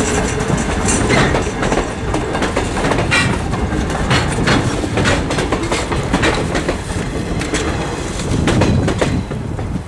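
Railroad cars rolling past close by, their wheels clicking irregularly over the rail joints over a steady rumble.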